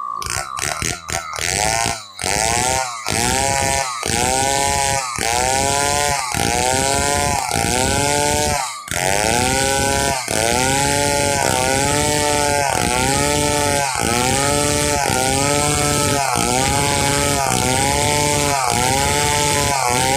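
Stihl 070 two-stroke chainsaw cutting wood. Its engine pitch swells and drops about once a second as the saw is worked through the log, with a few short throttle blips at the start.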